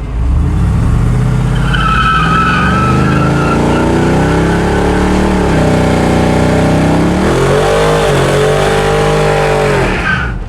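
A burnout: an engine held at high revs with the tyres squealing in the first few seconds, the revs dipping twice before they cut off near the end.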